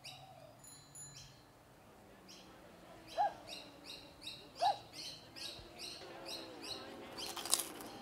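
Birds chirping: a run of rapid, evenly repeated high chirps, with two louder, lower, upward-swept calls about three and four and a half seconds in. A short sharp noisy burst near the end.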